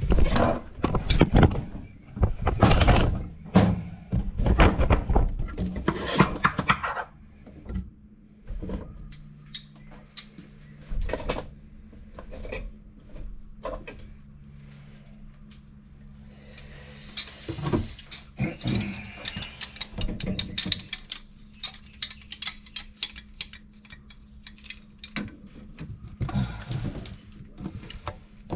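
Metal tools and fittings clinking and knocking as they are handled at a washer valve box. The knocks come thick for the first several seconds and then sparser, over a steady low hum.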